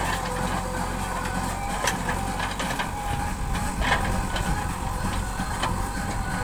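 Diesel engine of a JCB 3DX Super backhoe loader running steadily, with a few sharp clanks, the loudest about two and four seconds in.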